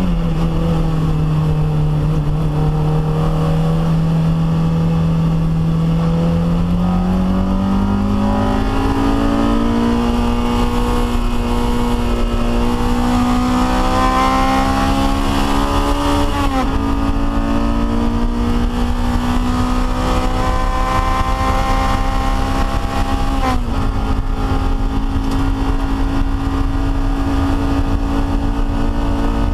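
Honda K20 inline-four of a Toyota MR2 Spyder track car at speed, heard from inside the cabin. The engine holds low, steady revs at first, then climbs under acceleration, with two quick upshifts where the revs drop sharply before climbing again. A steady rush of road noise runs underneath.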